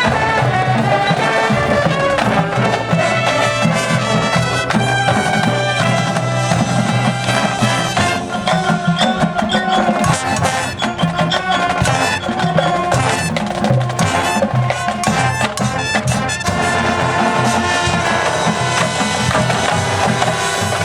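Marching band playing its field show: brass carrying the melody over drums and percussion.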